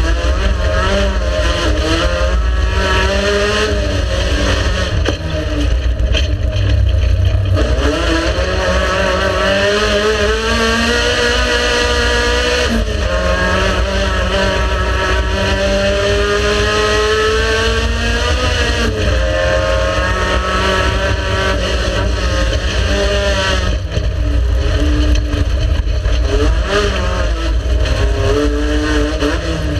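Race car engine under hard acceleration, its pitch climbing steadily and dropping sharply at gear changes, about four times, roughly every five to six seconds.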